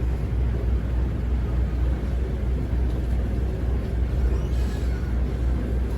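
Cross-river ferry's engine running with a steady low rumble.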